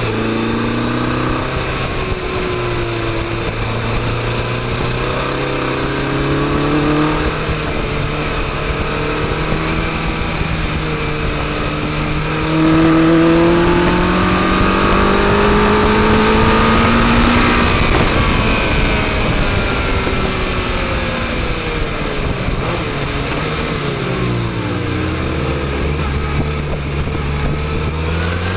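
Motorcycle engine under way, rising in pitch as it accelerates through the first half and loudest about halfway through, then falling as it slows, running low near the end before picking up again. A steady rushing noise runs underneath.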